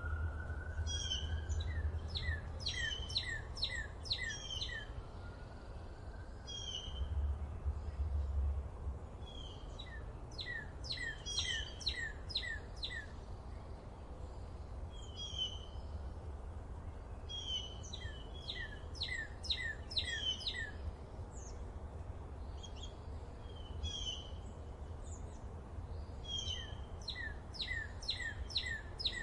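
Forest birdsong: one bird repeats a phrase of quick falling notes about every eight seconds, about four times, with single short chirps from other birds in between. A low, steady rumble sits underneath.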